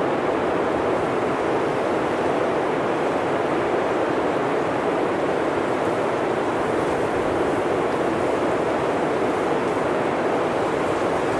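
Blizzard wind blowing steadily: an even rush of noise that neither gusts nor drops away.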